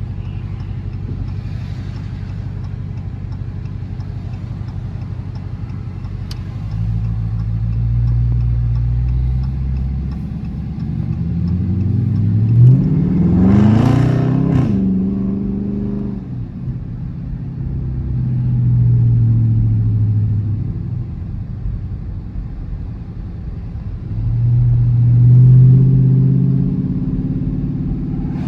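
Dodge Charger R/T's V8 engine and exhaust, from inside the car. A steady drone opens up into a louder pull about a quarter of the way in. The revs climb sharply around the middle, and the engine surges twice more later, loudest near the end.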